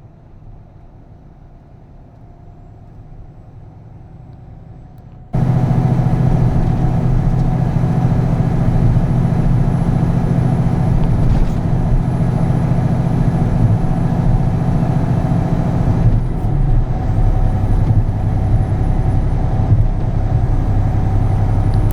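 Semi-truck diesel engine droning steadily while driving, heard from the cab; it is fairly quiet at first, then jumps abruptly to a much louder, steady drone about five seconds in.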